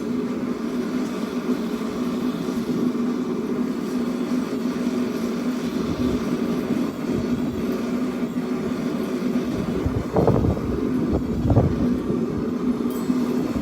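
Propane forge burner running with a steady hum. A few dull thumps come about ten seconds in.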